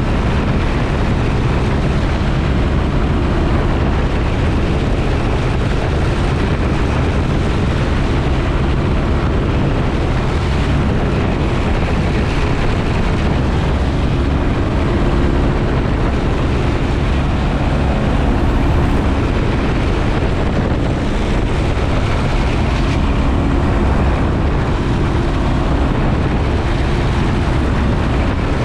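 Piper J-3 Cub's engine and propeller droning steadily in flight, heard from the open-style cockpit, with a constant rush of noise over the low engine hum.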